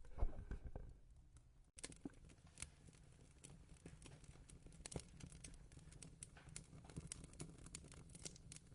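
Faint wood fire crackling, with irregular small pops and snaps over a low steady rumble. Near the start a brief rustle of handling ends in an abrupt cut.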